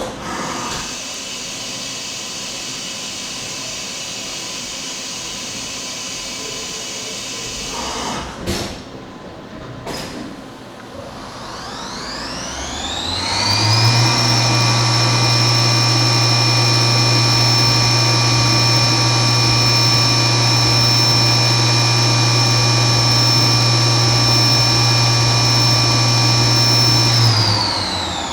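CNC milling machine working 6061 aluminum billet: steady machine noise with a few clicks, then the spindle spins up with a rising whine about twelve seconds in. It holds a steady high whine for about thirteen seconds and winds down near the end.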